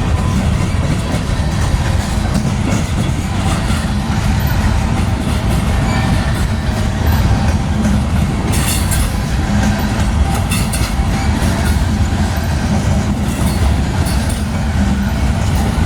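Freight cars of a manifest train rolling past: a steady heavy low rumble, with sharp clicks from the wheels, most of them about halfway through.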